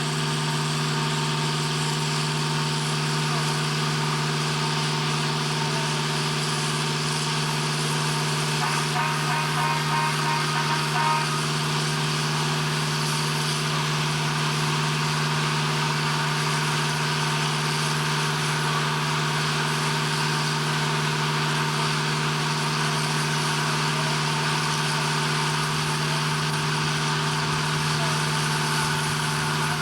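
Heavy machinery running steadily at a constant speed: a strong, even low hum with a hiss over it, unchanging throughout. A brief faint chattering sound rises over it about ten seconds in.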